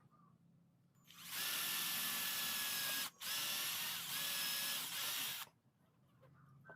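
Handheld power tool running steadily with a high, hissing whine, starting about a second in, cutting out briefly near three seconds and stopping about five and a half seconds in.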